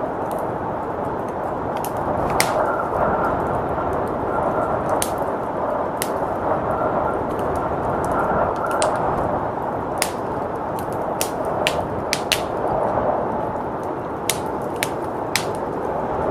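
Wood fire crackling, with frequent sharp pops and snaps at irregular intervals, over a steady rushing blizzard wind.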